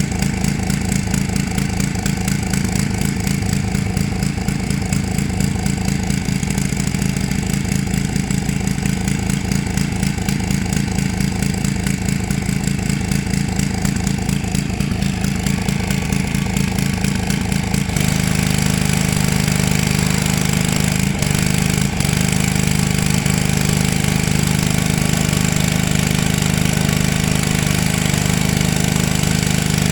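Small gas engine of a pressure washer running steadily with a fast even putter. About two-thirds of the way through, the sound shifts and gets louder and fuller, with more hiss.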